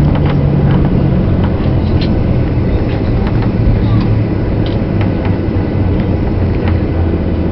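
Cabin noise inside a Boeing 737-800 rolling on the ground after landing: a steady low rumble of engines and wheels, with scattered light rattles and clicks from the cabin fittings.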